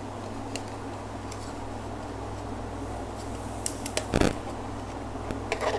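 A plastic LED ceiling light being handled: a few light clicks and one stronger knock about four seconds in, over a steady low hum.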